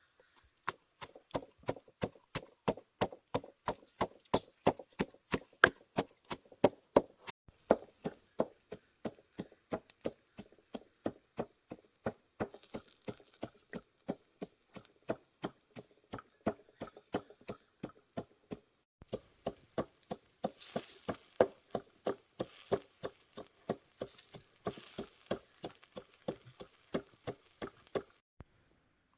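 A knife chopping steadily on a cutting board, about three strokes a second, stopping near the end.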